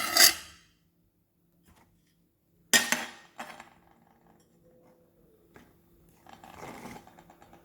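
A utensil scraping and clattering in a cooking pot as cooked sticky rice is scooped out: two short loud scrapes about three seconds apart, then faint rustling.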